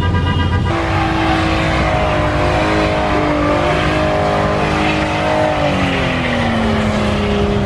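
Car engine revving hard and held at high revs, the pitch sagging and falling through the second half as the revs drop. Under a second in, a repeated beeping tone stops.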